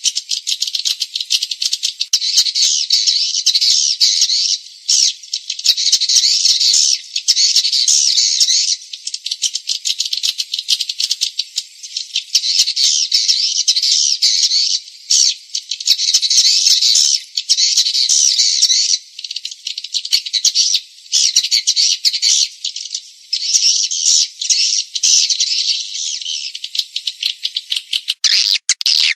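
Swiftlets twittering in a dense, rapid, high-pitched chatter, coming in bouts of a few seconds with brief gaps between them. This is a swiftlet call recording of the kind played to lure swiftlets into a nesting house.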